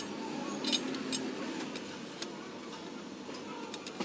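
Light metallic clicks from the parts of a ball bearing being handled, a few irregular ticks about a second apart with a close pair near the end, over a steady low hum.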